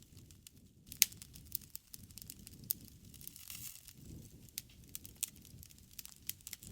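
Campfire crackling: irregular sharp pops and snaps, the loudest about a second in, over a low rush of burning wood that swells and fades every few seconds.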